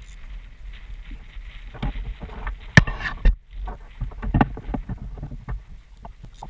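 Irregular knocks and splashes of water against a plastic sit-on-top fishing kayak, with the loudest sharp knocks about three seconds in.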